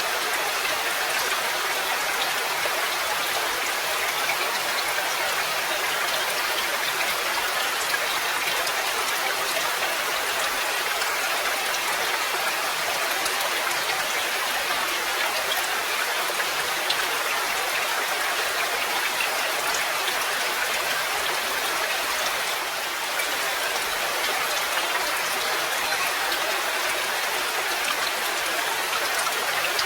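Steady rain falling, an even dense patter with no thunder or other events.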